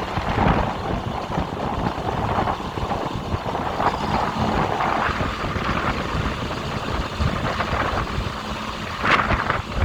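Heavy diesel truck engine running, with a short sharp burst of sound about nine seconds in.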